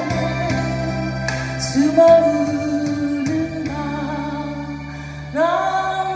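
Singing voice holding long, drawn-out notes of a slow Korean ballad over instrumental backing, with a new phrase starting about two seconds in and another near the end.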